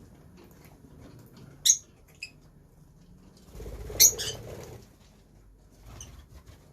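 Lovebirds giving short, sharp, high chirps: one loud chirp about a second and a half in and a fainter one just after, then a louder cluster around four seconds in over a low rustle, and a faint chirp near the end.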